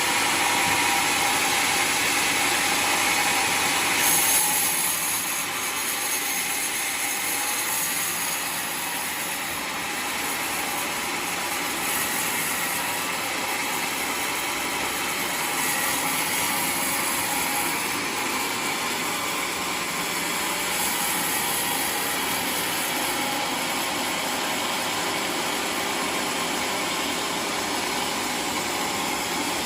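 Homemade sawmill running steadily while sawing a waru log into planks: a continuous engine-driven saw noise that drops slightly about four seconds in.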